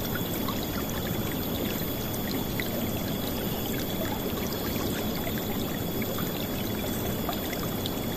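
River water flowing and splashing in a steady, dense rush, with small droplet splashes scattered through it.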